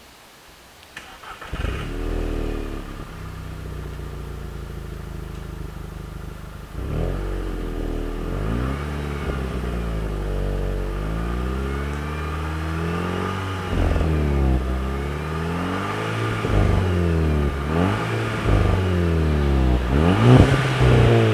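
Volkswagen Golf 6 GTI's 2.0 TSI turbocharged four-cylinder engine, through its stock exhaust, starting about a second in, flaring briefly and settling to idle. From about seven seconds in it runs louder, with repeated revs whose pitch rises and falls every second or two.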